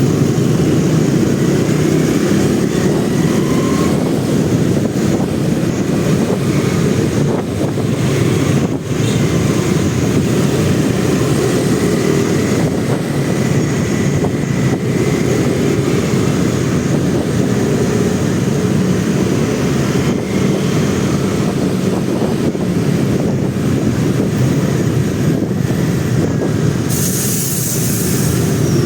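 Motorcycle riding in city traffic: a steady, loud mix of engine, road and wind noise, with a brief sharp hiss near the end.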